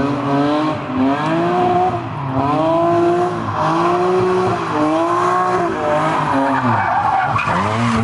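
Car engine revving up and falling back again and again, with tires squealing as the car slides in a drift.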